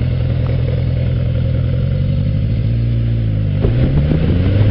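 Motorcycle engine running steadily under way, then rising in pitch as the bike accelerates during the last second or so.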